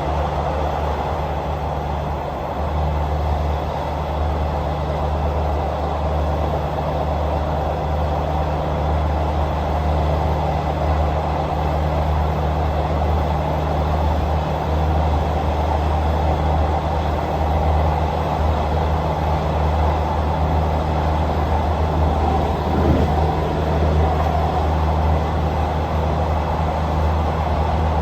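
Passenger train running along the line: a steady deep hum under a constant rushing rumble.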